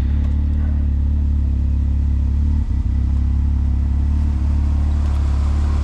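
A 4x4 vehicle's engine running steadily, a continuous low drone with a brief dip about halfway through.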